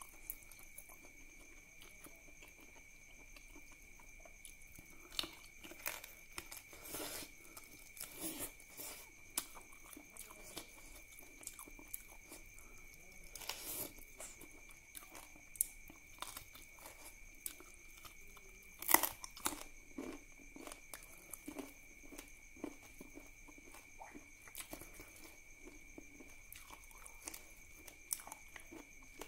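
Close-miked eating: wet chewing, lip smacks and crunching as a man eats duck curry and rice by hand, in irregular clicks, with one loudest bite about two-thirds of the way through. A faint steady high whine runs underneath.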